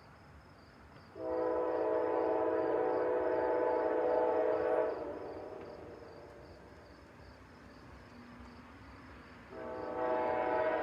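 Amtrak diesel locomotive's air horn sounding two long blasts: the first lasts about three and a half seconds and dies away, the second starts near the end. Both are chords of several steady tones.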